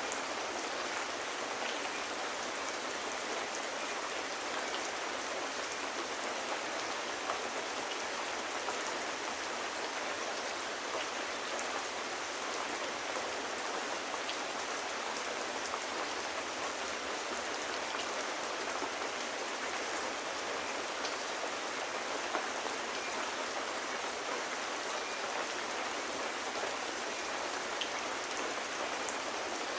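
Steady rain falling on hard surfaces: an even hiss with scattered small ticks of individual drops.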